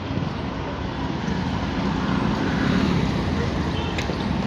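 Steady city street traffic: a rumble of passing vehicles, with a brief high tone about four seconds in.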